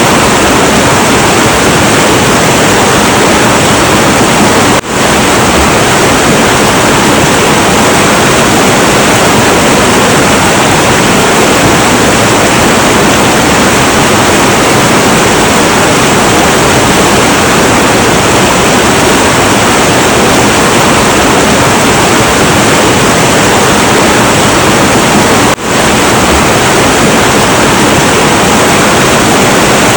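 Heavy, turbulent river water rushing in a steady, loud, unbroken roar, dipping briefly twice, about five seconds in and near the end.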